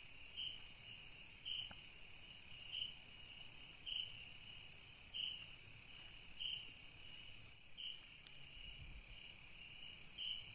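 Night insects in the forest: a steady high-pitched drone, with a shorter chirp repeating about once every second and a bit.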